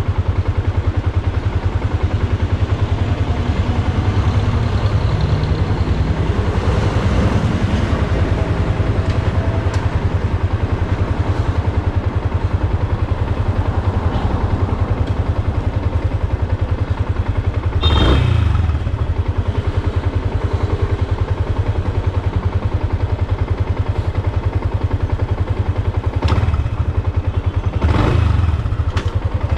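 Yamaha motorcycle's single-cylinder engine idling with a low, even throb. It swells louder briefly about eighteen seconds in and again near the end.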